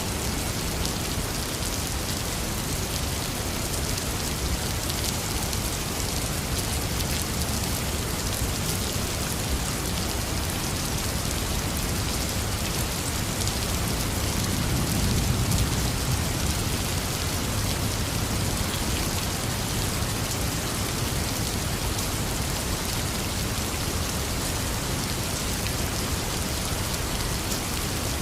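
Heavy rain falling steadily in a dense, even hiss, with a low rumble of distant thunder swelling briefly about halfway through.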